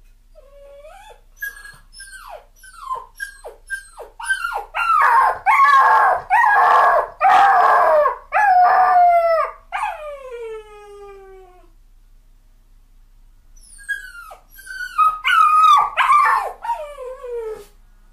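A dog crying: a run of short yelps falling in pitch, then loud drawn-out howls and long falling whines, a lull of about two seconds, and another bout of howling near the end.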